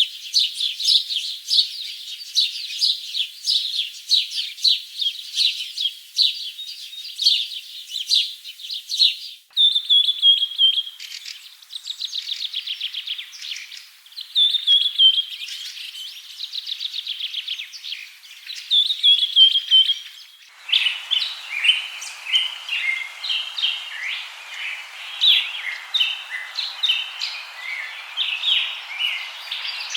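Birds chirping and trilling in rapid high notes. The sound changes abruptly about a third and two-thirds of the way through, like separate recordings spliced together. The last part has a steady hiss behind the chirps.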